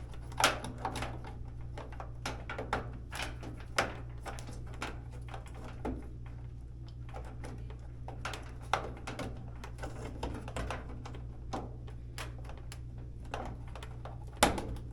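Irregular clicks and light knocks of plastic and metal dryer parts being handled while wire connectors are pushed back on. There are sharper knocks about half a second in and near the end, over a steady low hum.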